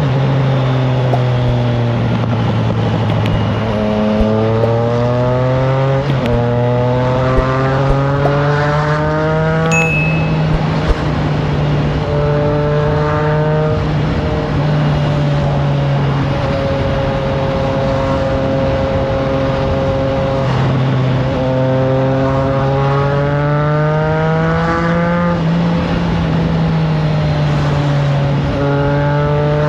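Triumph Trident 660's inline-three engine through a FireTong exhaust, pulling up through the gears: the pitch climbs in several runs and drops at each shift, with a stretch of steady cruising in between. Wind noise on the microphone underneath.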